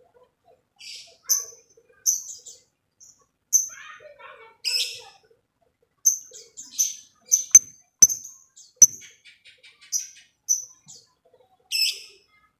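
Lovebirds giving repeated short, sharp, high-pitched chirps, one every half second to a second, with a few sharp clicks and a quick run of ticking notes a little past the middle.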